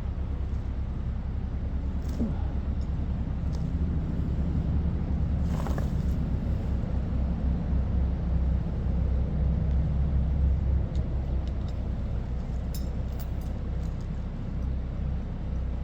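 A steady low engine rumble that grows a little louder for several seconds in the middle, with a couple of faint clicks.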